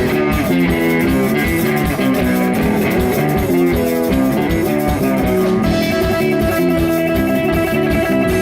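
Live rock band playing an instrumental intro: a repeating guitar riff over bass and drums with an even beat. About six seconds in, a long held note comes in above the riff.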